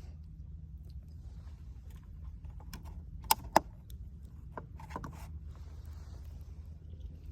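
Wood fire burning with a steady low rumble and scattered small crackles, and two sharp loud pops in quick succession about three seconds in.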